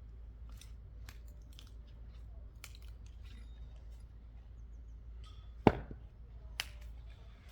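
A single chopping blow into wood about three-quarters of the way in, a loud sharp impact with a short ring after it, followed about a second later by a smaller sharp crack. Faint light clicks and taps come and go in between.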